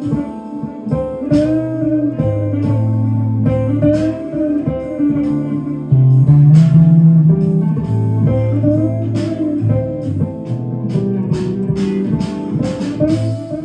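Electric guitar with a clean tone improvising a blues-style lead in A minor, with string bends over sustained low notes. Quicker runs of picked notes come near the end.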